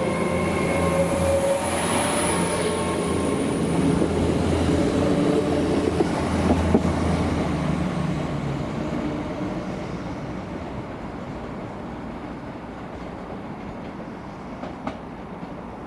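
LNER Azuma Class 800 bi-mode train pulling out on its underfloor diesel engines, a steady engine drone with a high electrical whine over it and some rail and wheel noise. After about eight seconds it fades steadily as the train draws away, with a single faint click near the end.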